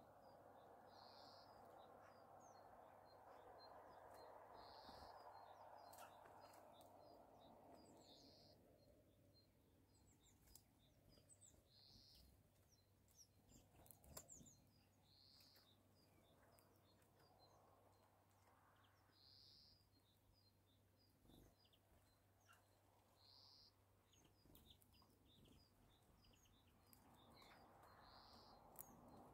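Very faint bird ambience: a small bird gives a short, high call about every three to four seconds. A faint steady hiss fades out after several seconds and returns near the end.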